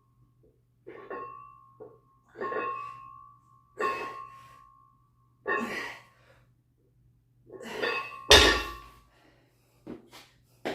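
A man breathing out hard with effort about every one and a half seconds, one push per repetition of a weight exercise. About eight seconds in there is one heavy thud, the loudest sound of the stretch.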